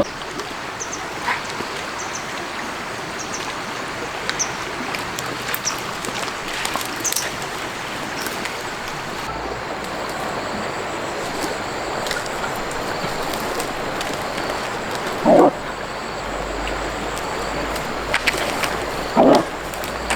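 A dog gives two short yips, about three quarters of the way through and again near the end, over a steady hiss with scattered small clicks.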